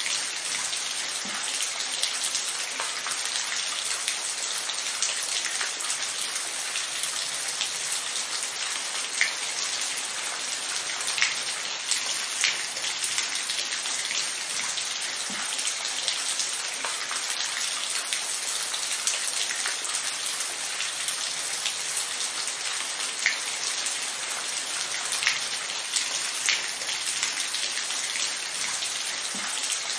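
Steady rain falling, a continuous hiss with scattered close drops ticking sharply on a surface.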